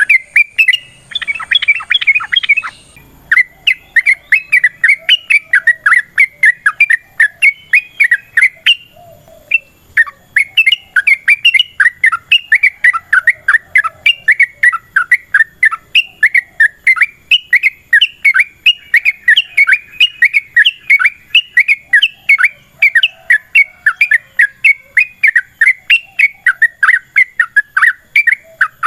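Yellow-vented bulbuls calling: a fast, unbroken run of short chattering notes, several a second, with a brief break about nine seconds in. This is the long, rapid bout heard when trucuk birds call against each other.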